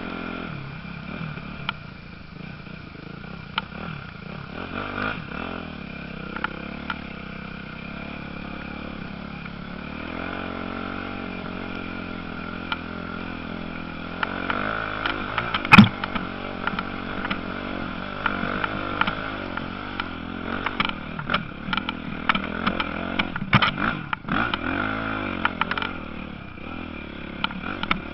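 Motocross motorcycles running, their engines revving up and down. A single sharp crack about sixteen seconds in is the loudest sound.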